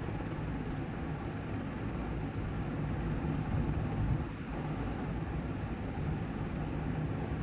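Steady low hum and hiss of background room noise, with no distinct sound standing out.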